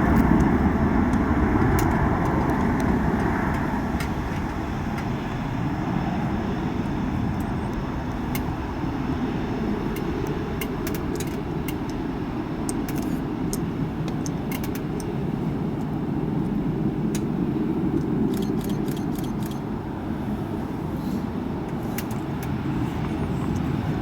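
Airbus A300-600R jet engines, a low rumble that fades over the first few seconds and then holds steady as the airliner climbs away after takeoff. Scattered faint clicks are heard over it.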